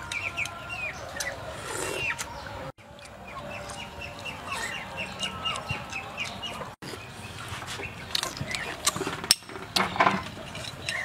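Birds chirping, with a quick, even run of repeated chirps in the middle, over a few light clinks of a spoon against a bowl.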